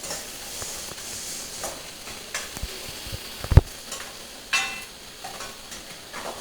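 Food sizzling in hot oil in a pan while a metal spoon stirs and scrapes it, with a loud knock about three and a half seconds in and a ringing metal clatter a second later.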